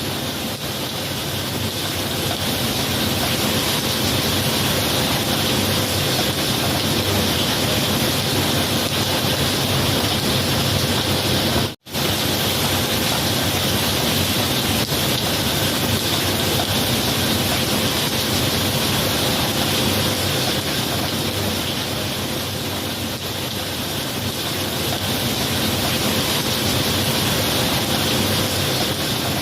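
Steady heavy rain, an even hiss and patter, that cuts out for an instant about twelve seconds in.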